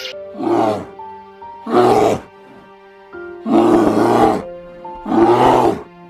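A bear roaring four times, each call under a second, the third the longest, over background music with held notes.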